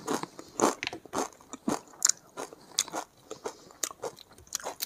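Chewing crisp papad: a run of irregular crunches, about two or three a second.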